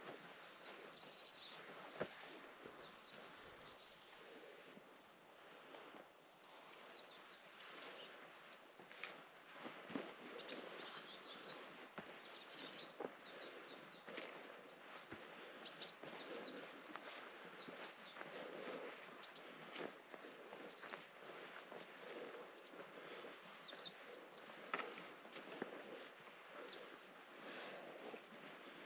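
Small birds chirping: many short, high chirps in quick runs, each falling in pitch, over a soft steady hiss.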